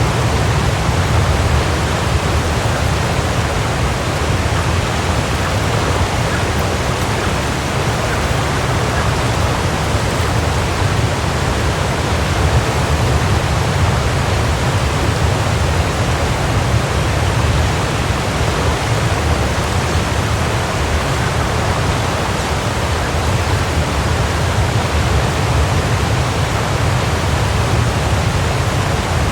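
Waterfall: water falling and crashing in a steady, unbroken rush, with a deep low rumble under the spray hiss.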